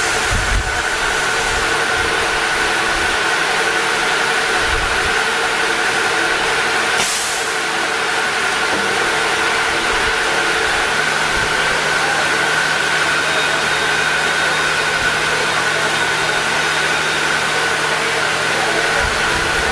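Machinery running steadily with a constant hum, a short hiss about seven seconds in, and a lower steady drone joining a few seconds later.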